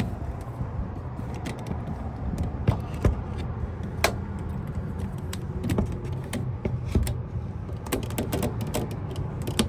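Irregular metallic clicks and taps of hand tools and lock parts as an F-150 ignition lock cylinder is worked loose and pulled, over a steady low hum.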